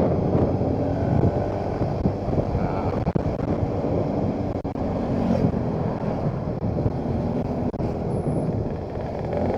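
Motorcycle engine running steadily while riding, mixed with the rumble of wind over the microphone.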